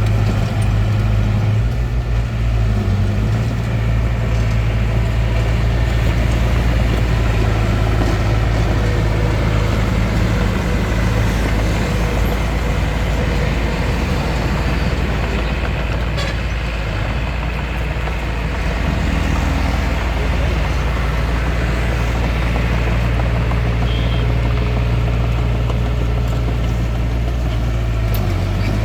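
Bulldozer's diesel engine running steadily while working. Its low note eases off in the second half and comes back stronger near the end.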